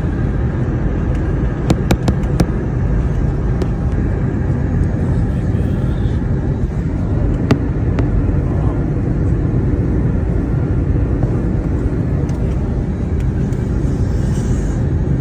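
Steady low rumble of a moving vehicle, heard from inside it, with a few sharp clicks about two seconds in.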